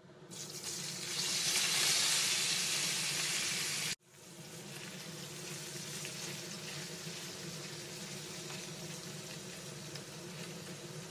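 Boiled baby potatoes sizzling in hot oil in a frying pan: a burst of sizzling that swells as they go in, then, after a sudden break about four seconds in, a steadier, quieter frying sizzle as a wooden spatula stirs them.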